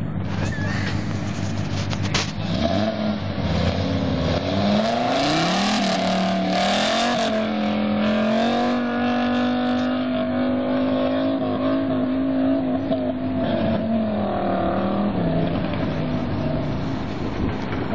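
1987 Audi GT Coupe's five-cylinder engine idling, then launching about two seconds in: the revs rise in a few quick pulls through the gears, hold high and steady for several seconds, and drop back around fourteen seconds in.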